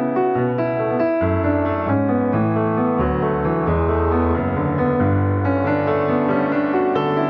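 Piano music: a continuous flow of melody notes over held bass notes.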